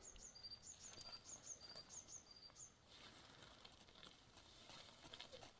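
Faint bird chirping: a short, high two-note phrase repeated several times, stopping about three seconds in, over quiet background.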